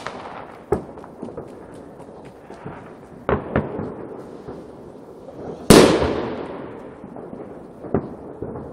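Fireworks and firecrackers going off: scattered bangs and small crackles, the loudest a single big bang about two-thirds of the way through that dies away in a long rumbling echo.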